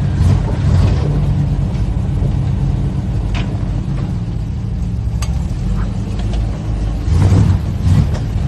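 Off-road vehicle engine running with a steady low rumble, with a couple of sharp knocks in the middle and a louder burst about seven seconds in.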